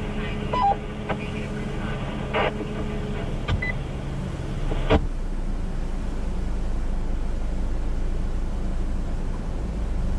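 Radio receiver between transmissions: a steady hum with a few short beeps and clicks, then a sharp click about five seconds in. After it comes a steady rushing noise, a little louder.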